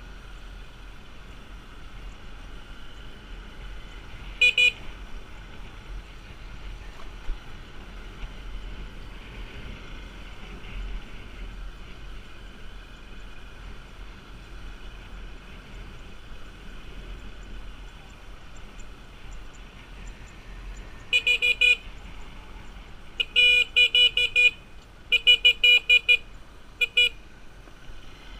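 Steady motorbike traffic noise with horns beeping. There is a quick pair of toots about four seconds in, then runs of rapid, repeated short horn beeps from about twenty-one to twenty-seven seconds in.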